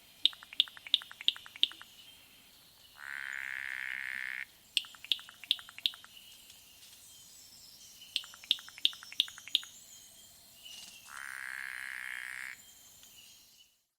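A bird calling: runs of four or five sharp, high chips, about three a second, broken twice by a harsh buzzy note lasting about a second and a half.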